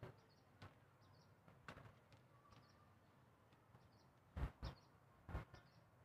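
Near silence with faint, high bird chirps recurring every second or so. Several short, soft thumps come through, clustered between about four and a half and five and a half seconds in.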